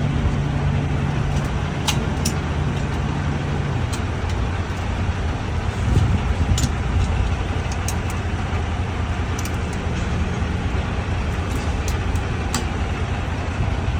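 Semi truck's diesel engine idling, a steady low rumble, with a low hum that drops away about four seconds in and scattered light clicks over it.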